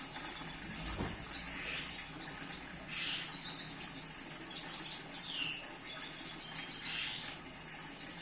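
Red siskin twittering, a run of short high chirps and descending chirped notes repeated every second or two, with a thump about a second in.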